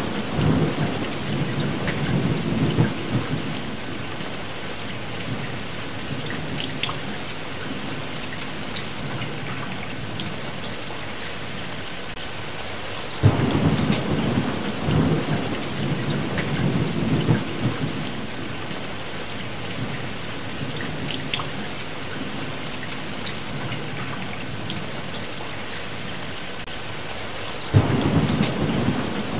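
Steady rain with rolls of thunder: a rumble dying away in the first few seconds, a sudden clap about 13 seconds in that rumbles on for several seconds, and another starting near the end.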